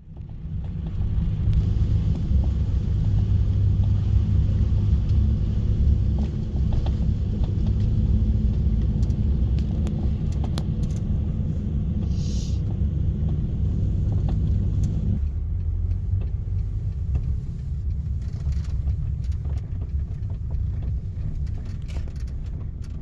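Steady low rumble of a moving vehicle, with scattered light clicks; the rumble drops somewhat about fifteen seconds in.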